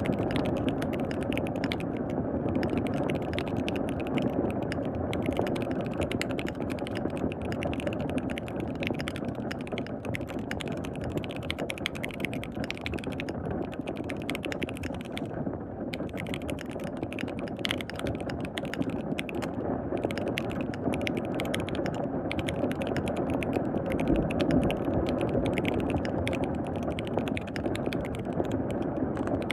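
Fast, continuous typing on a KBD67 Lite R3 custom mechanical keyboard with lubed linear switches, pausing briefly a few times, over a steady wash of rain.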